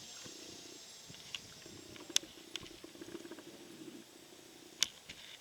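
Faint buzz of a Twinstar RC plane's twin electric motors in flight, dropping out and coming back in stretches: the motors are cutting off, which the pilots put down to the speed controller (ESC) not handling the 4-cell battery. Two sharp clicks, about two seconds in and near the end.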